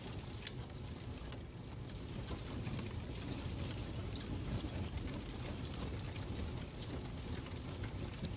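Fireplace crackling: a steady low rumble with many small, irregular pops and ticks.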